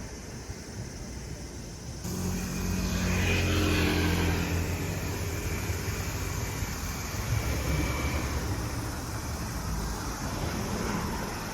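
An engine passing by: its hum starts about two seconds in, is loudest around four seconds, then slowly fades.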